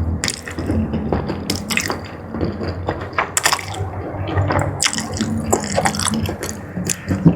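Close-miked wet eating sounds: chewing and mouth smacking on jumbo squid in a thick spicy sauce, with many irregular wet clicks and squelches.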